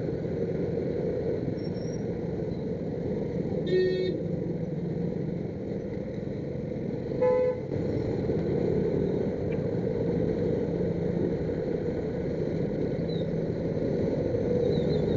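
Steady din of heavy rush-hour road traffic, engines running, with two short horn honks, one about four seconds in and one about seven seconds in.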